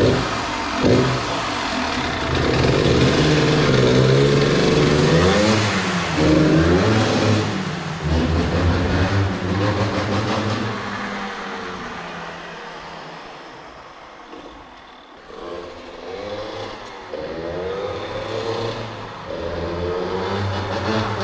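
Yamaha DTR 125's two-stroke single-cylinder engine running and being revved up and down. It fades as the bike rides off down a concrete underground car park, quietest a little past halfway, then grows louder again as it comes back.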